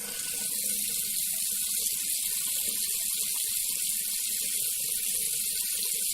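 A steady, high-pitched hiss of noise with nothing low under it, like a hissing or spraying sound effect laid into the soundtrack in place of the music.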